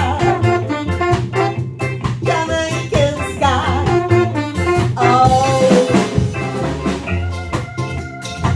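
Ska band playing with a woman singing over a steady offbeat rhythm of drums, bass and guitar; near the end the voice stops and held keyboard chords carry on.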